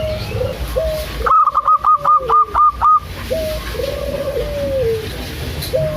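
Zebra dove (perkutut) cooing: a quick run of about eight clipped, hooked notes, with lower, drawn-out coos that fall in pitch coming before and after it.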